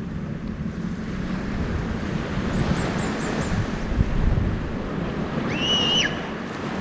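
Wind buffeting the microphone over the wash of the sea, a steady rushing noise with gusty low rumble. About five and a half seconds in, a short high whistling tone rises, holds for half a second and falls away.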